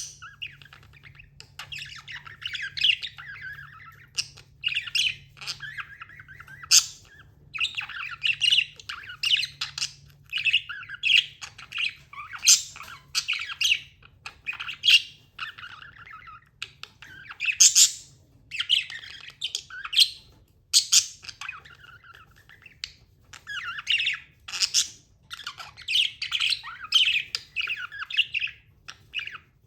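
Budgerigars chirping and chattering: a busy, almost unbroken run of short warbling calls mixed with louder, sharper squawks.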